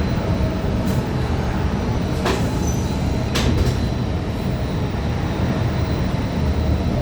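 Interior ride noise of a 2015 Gillig low-floor CNG transit bus under way: steady low rumble from its Cummins Westport ISL G engine and the road, with a faint steady high whine. Two sharp clicks or rattles sound a little over two seconds in, about a second apart.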